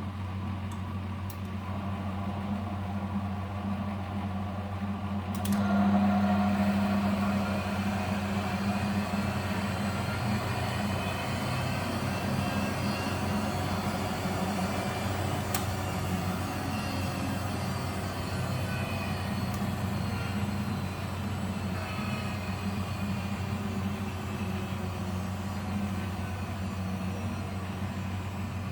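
Miele W761 washing machine running with a steady low hum. About five seconds in, a louder rushing noise sets in and then eases off gradually.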